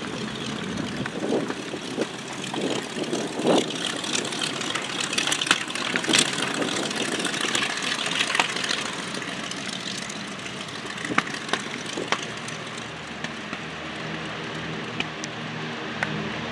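Propeller airplane engine noise: a broad hiss with scattered clicks, then a low, steady engine drone that comes in near the end and grows louder as the plane nears.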